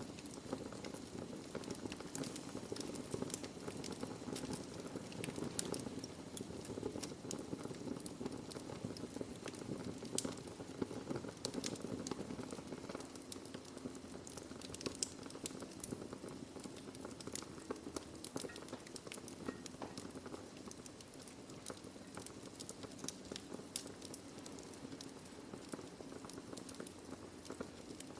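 Wood fire burning in a fireplace: a steady low rumble of flames with continual small crackles and pops from the burning logs, now and then a sharper pop.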